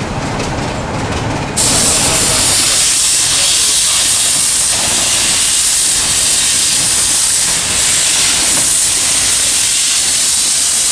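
Steam locomotive venting steam: a loud, steady hiss that starts suddenly about one and a half seconds in, over a low rumble at the start.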